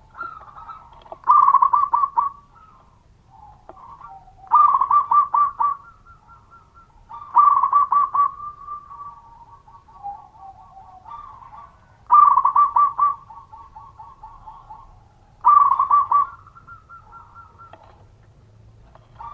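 Zebra dove (perkutut) singing: five loud phrases of rapid stuttering coos, each about a second long and a few seconds apart, with softer drawn-out cooing notes between them.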